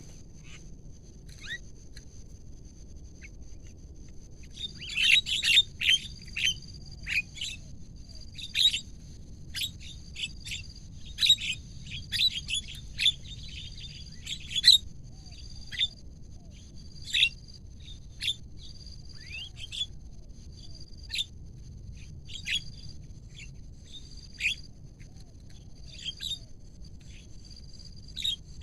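Javan mynas calling: sharp, short chirps in loose bursts that start a few seconds in and go on irregularly, over a steady high whine.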